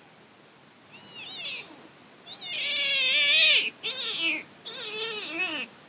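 Kitten meowing: a faint short cry about a second in, then three loud, high-pitched cries in quick succession, the first the longest.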